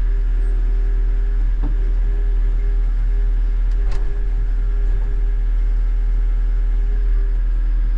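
Diesel engine of a Caterpillar wheel loader running steadily, a deep constant drone with a faint steady whine above it.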